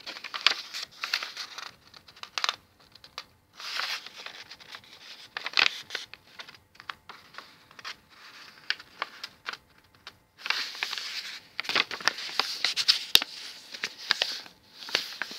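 A sheet of A4 printer paper being handled and folded corner to corner, with irregular rustling and crinkling and a few sharp crackles as the crease is pressed.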